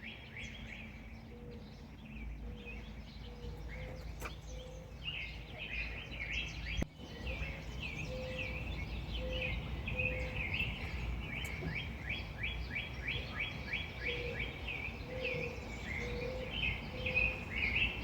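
Several backyard songbirds chirping and singing, including a stretch of rapid repeated notes in the middle, over a steady low background rumble.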